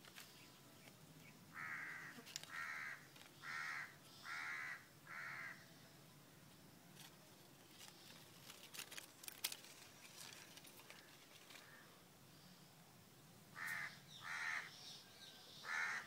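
A bird calling: a run of five harsh calls about a second apart, then three more near the end, with a few light clicks in between.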